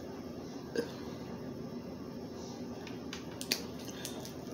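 A few faint, short clicks against a quiet steady room background: one under a second in and a small cluster about three and a half seconds in.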